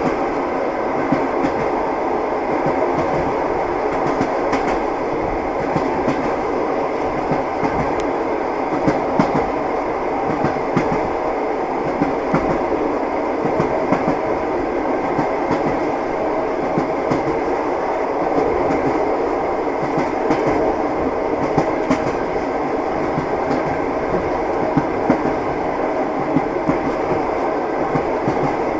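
Train wheels clattering over rail joints as heard inside a moving passenger carriage: a steady rolling rumble with frequent sharp clacks.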